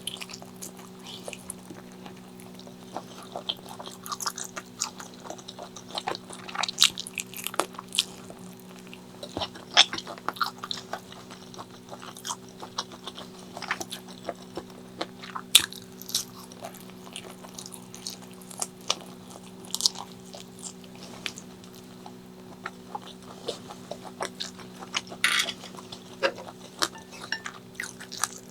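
Close-miked mukbang eating: bites and chewing with many sharp, irregular crunchy clicks and mouth sounds, over a steady low hum.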